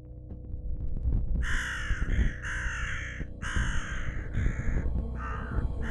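Harsh, cawing bird calls, about seven in quick succession beginning about a second and a half in, over a low steady rumble.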